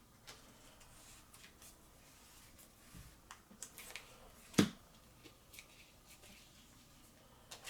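Trading cards being handled and slid into plastic card sleeves: soft rustles and small clicks, with one sharp tap about four and a half seconds in.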